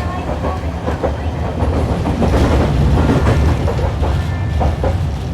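Hiroshima Electric Railway 650-type tram, car 652, running along its line, heard from on board: a steady low rumble of motors and wheels on the rails with scattered clicks from the track.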